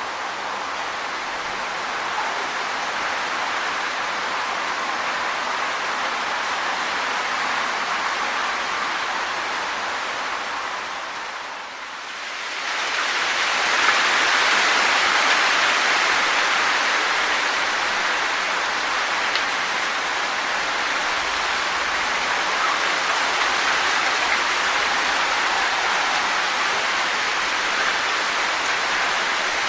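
Wind blowing through tree leaves, a steady rustling hiss. It eases off briefly a little before the middle, then swells into a stronger gust.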